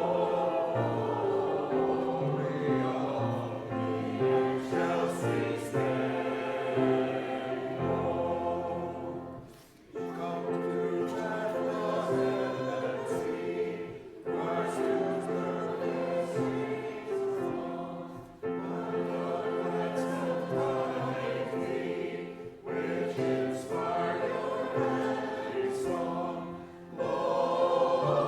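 A congregation singing a Christmas carol together in sustained phrases, with brief breaks between lines about every four seconds.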